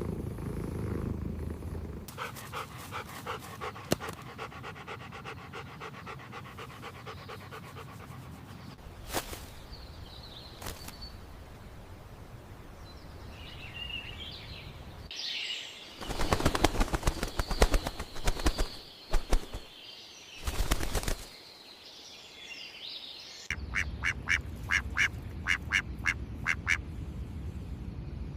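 A string of different pet animal sounds one after another: a fast rhythmic panting, then high chirps, a loud run of calls about halfway through, and a quick series of short pitched calls near the end.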